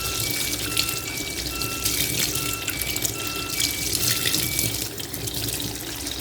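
Water running into a fully automatic washing machine's drum as it fills. A simple electronic tune of short repeating tones plays over it and stops about four and a half seconds in.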